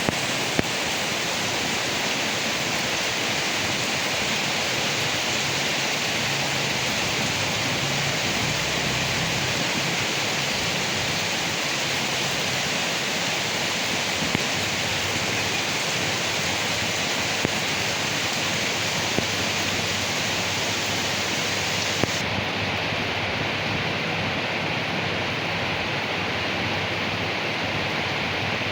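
Steady rain falling on leaves, an even hiss with a few sharper drop ticks scattered through it.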